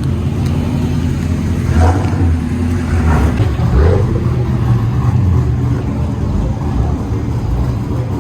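A pro drift car's engine running loud, with a few short rev blips in the first half.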